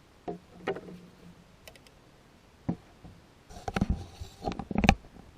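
Camp coffee press and cookware being handled: a few light clicks and knocks, then a run of clattering knocks from about three and a half seconds in.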